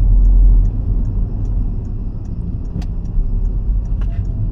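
Car interior road noise while driving: a steady low rumble of engine and tyres, with a light tick repeating about two and a half times a second and a single sharper click near the middle.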